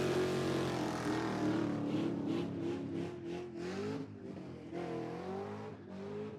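A classic car's engine pulling away, its revs rising and falling a couple of times as it fades into the distance.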